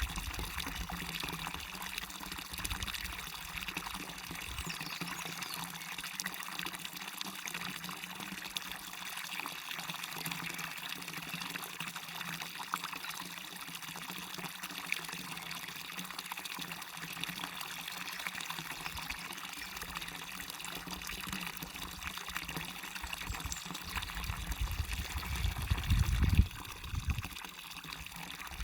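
Small waterfall pouring and splashing steadily into a stream, an even rush of water. Low rumbles come in near the start and again toward the end, where the sound swells briefly before easing off.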